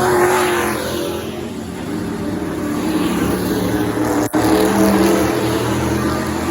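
Engines of pro-class race trucks running at speed around the oval, several engine notes overlapping and rising and falling as the field laps. The sound cuts out for an instant a little over four seconds in.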